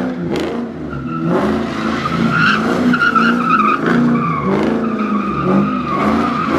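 Car engine revving up and down repeatedly over a steady, wavering tyre squeal, as in a burnout or drifting.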